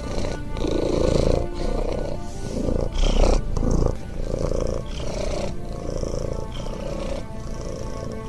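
Domestic cat purring close up, a rapid low rumble that swells and eases with each breath in and out, with a louder swell about three seconds in. Soft background music with held tones plays under it.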